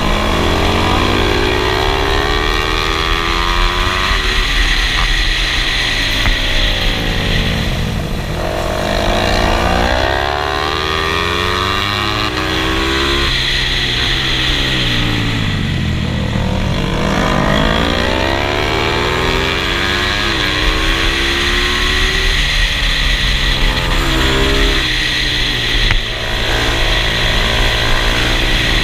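Motorcycle engine revving hard, its pitch climbing and falling again several times as it accelerates and slows, with a steady hiss underneath.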